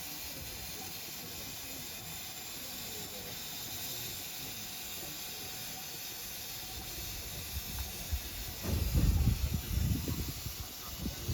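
Steady hiss of steam from a steam locomotive. About eight seconds in, low rumbling surges join it.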